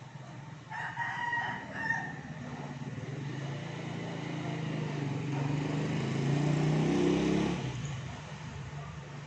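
A rooster crows about a second in. Then an engine builds up, rising in pitch to its loudest point near the seventh second, and dies away.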